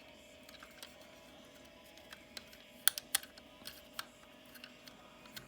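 Plastic joints and parts of a transforming robot toy figure clicking as they are moved and snapped into place: scattered sharp clicks, a quick run of them about three seconds in and another single click about four seconds in.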